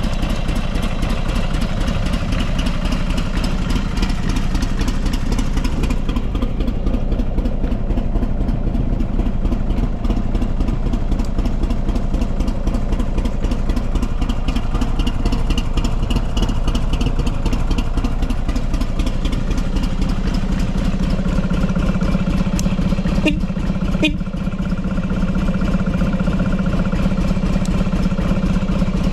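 Buell XB12SCG Lightning's air-cooled 1203 cc V-twin engine idling steadily, with no abnormal mechanical noise, as the seller states. A couple of brief clicks near the end.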